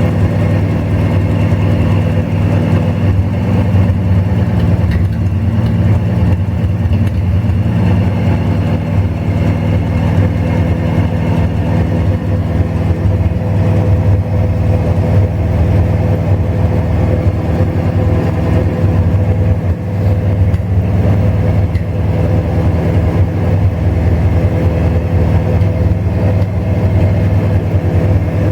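Chevrolet 235 inline-six engine idling steadily on its first start-up.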